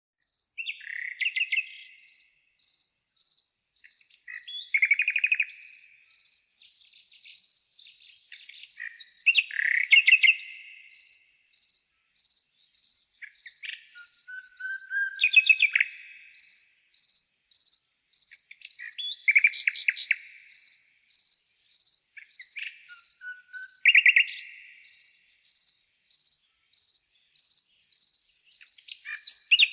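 A songbird singing short, fast phrases about every four to five seconds, over a steady high chirp repeated evenly two to three times a second.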